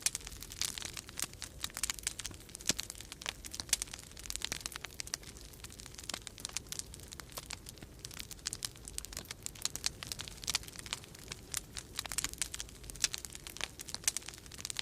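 Wood fire crackling in a fireplace: a dense, irregular stream of sharp pops and snaps over a steady low rumble.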